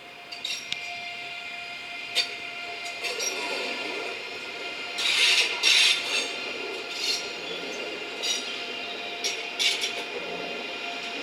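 A train passing on the rails, its wheels squealing in several steady high tones, with sharp clicks and louder screeching bursts about five to six seconds in.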